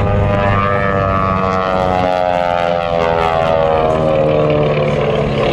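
P-51 Mustang's Merlin V12 engine in a propeller flypast, its engine note falling steadily in pitch as the aircraft passes.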